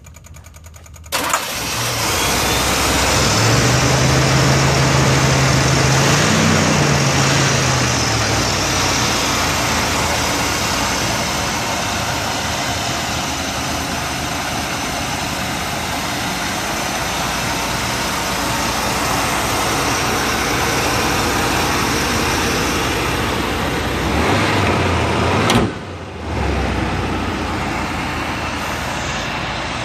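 1986 Chevrolet El Camino's engine starting about a second in, then running steadily at idle, with a brief rise in pitch a few seconds after starting. Near the end the sound drops away for a moment and picks up again.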